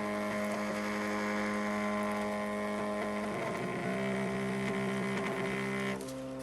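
Tattoo stencil printer running as it prints a stencil: a steady whirring hum whose pitch shifts about halfway through and again near the end, where it gets a little quieter.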